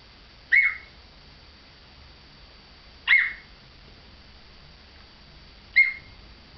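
African grey parrot imitating a dog's bark: three short, high-pitched barks spaced about two and a half seconds apart.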